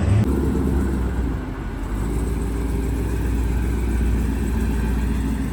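The LS V8 engine of a twin-turbo limousine running steadily with a deep, low drone. The engine swells briefly right at the start.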